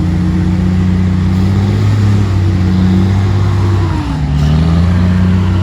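Heavy truck's diesel engine running steadily; about four seconds in its pitch sags briefly and then climbs back.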